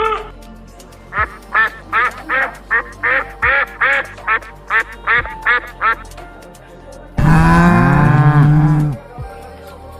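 A duck quacking, a quick run of about a dozen short quacks, followed near the end by a cow's long, loud moo.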